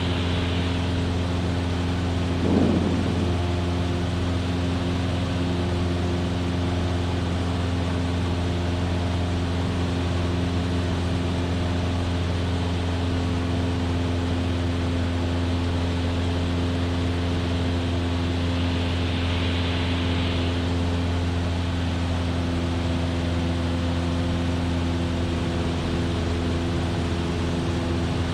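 Cessna 172F's Continental O-300 six-cylinder engine and propeller droning steadily in flight, with a short louder sound about two and a half seconds in.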